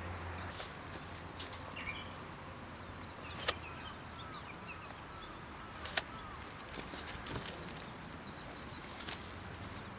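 Birds chirping faintly in the background, with a few sharp clicks or knocks at uneven intervals, the loudest two about three and a half and six seconds in.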